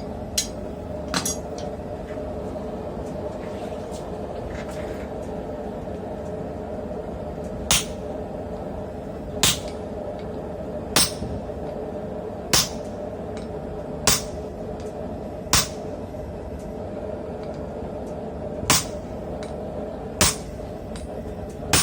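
Single hammer blows on metal at a slow, even pace, about one every one and a half seconds, over a steady hum.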